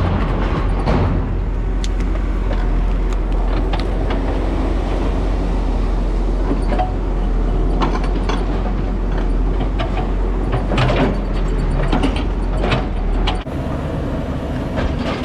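Diesel engine of heavy demolition equipment running steadily, with scattered knocks and clanks over it. The low rumble drops away near the end.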